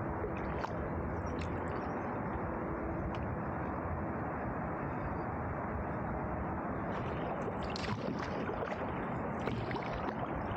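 Canoe paddling, with water splashing and dripping from the paddle over a steady rush of noise. The splashes grow more frequent from about seven seconds in.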